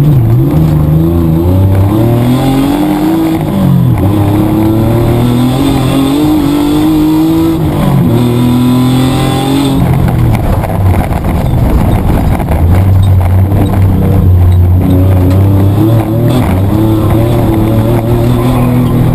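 Mitsubishi Triton's petrol engine heard from inside the cab at race pace. The revs climb and drop again and again as it shifts gears and lifts off the throttle.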